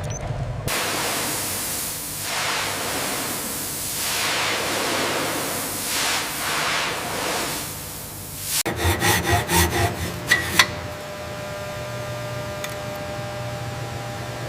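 Harsh rasping, scraping noise of abrasive work against a surface for about eight seconds. It is followed by a quick run of about six rasping strokes, then a steady hum of several tones.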